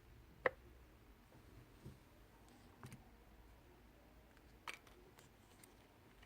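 A handful of short, sharp clicks and taps in a quiet small room, the loudest about half a second in and fainter ones spread over the next few seconds.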